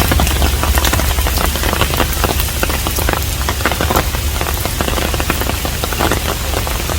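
Steady rain falling on a hanok, a traditional Korean house: a dense run of irregular drop hits over a constant hiss, with a steady low rumble underneath.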